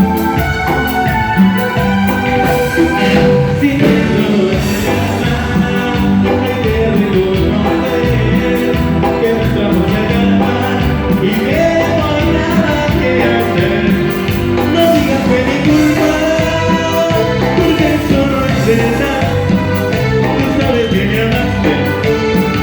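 A cumbia band playing live: a melodic lead line over bass and a steady beat, with no lyrics recognised.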